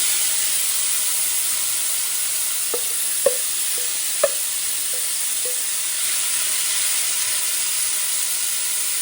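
Mixed seafood frying in a pan with garlic, ginger and chili: a steady sizzle, with a few light knocks of a utensil against the pan a few seconds in.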